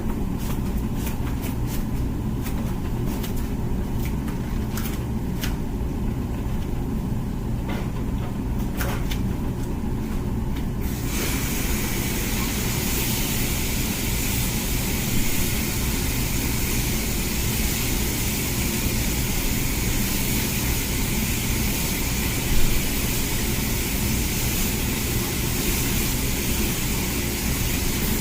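Comfee dishwasher running mid-cycle: a steady motor hum with scattered clicks. About eleven seconds in, a loud hiss of water spraying starts suddenly and continues.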